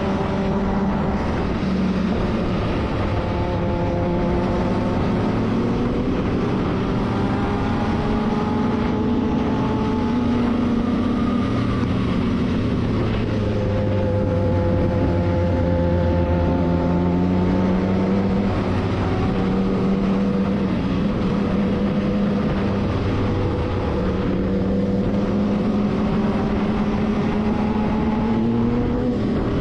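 Motorcycle engine running, its pitch rising and falling slowly as the revs change.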